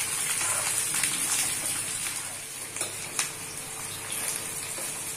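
Okra and onion sizzling in hot oil in an aluminium kadhai, a steady frying hiss. A perforated metal spoon stirs them, scraping and clicking against the pan now and then.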